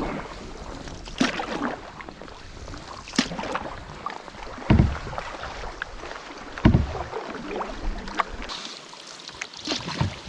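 Water lapping and sloshing against a canoe, with scattered light knocks and two dull thumps on the hull, about five and seven seconds in.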